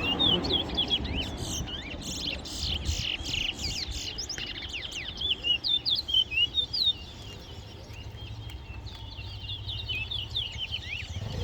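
Towa-towa songbirds singing in a song contest: a continuous run of quick, high chirps and short whistled slides, with a louder stretch of rapid repeated notes midway.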